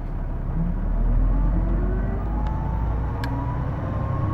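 Hino Blue Ribbon II bus heard from inside, pulling away and accelerating: diesel engine rumble with a slowly rising whine from the drivetrain. The whine is this bus's distinctive noise, which the recorder takes for the transmission and likens to an automatic gearbox.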